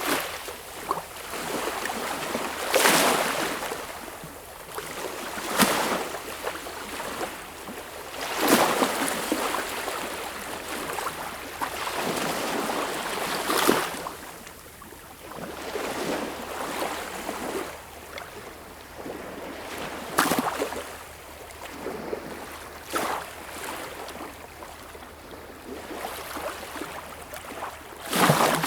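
Sea waves breaking and washing in: a steady hiss of water with a louder surge of surf every three to six seconds.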